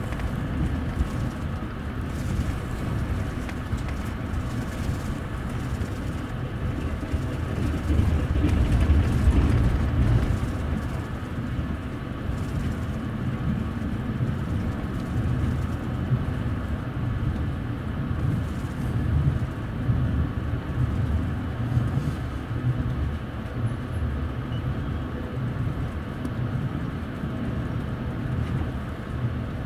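Steady rumble of a moving passenger train's wheels on the rails, heard from inside the upper deck of a double-decker coach; it swells briefly about eight seconds in.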